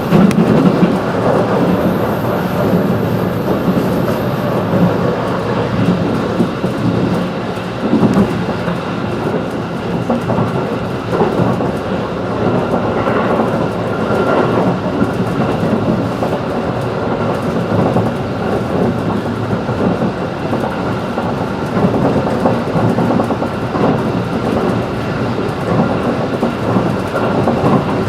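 JR 211 series electric multiple unit running at speed, heard from inside the passenger car: a steady rumble of wheels on rail with faint whining tones and occasional sharper knocks over the track.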